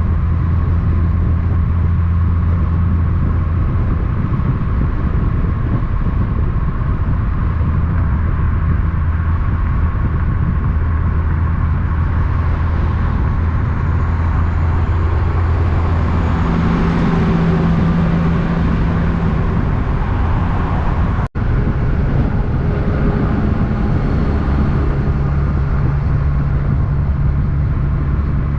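Steady low drone of a road vehicle's engine and road noise, its pitch shifting a little around the middle, broken by a very short dropout about two-thirds of the way through.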